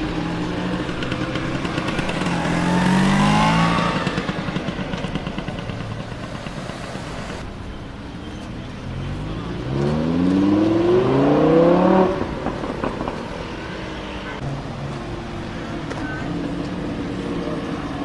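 Lamborghini Huracán LP610-4's V10 engine accelerating twice. A short rise in pitch comes a couple of seconds in, followed by a patter of crackles as it lets off. A longer climbing rev starts about nine seconds in and cuts off suddenly about three seconds later, leaving a lower steady engine note.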